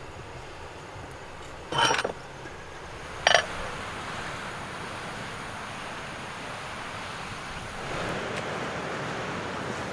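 Two short, sharp clinks about a second and a half apart over a steady background hiss that grows a little louder near the end.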